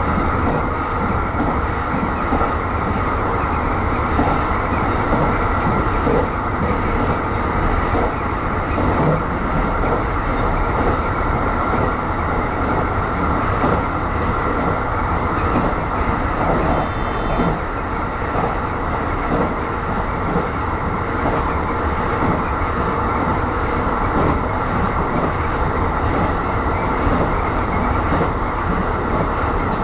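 Aonami Line electric commuter train running along the line, heard from inside the front car: a steady rolling rumble of wheels on rail under a constant high whine.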